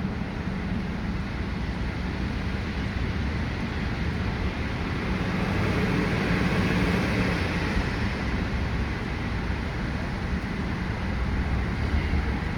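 Steady traffic noise in a road tunnel, heard from inside a car creeping along in slow traffic: a low engine and road hum under a wide hiss, swelling a little around the middle.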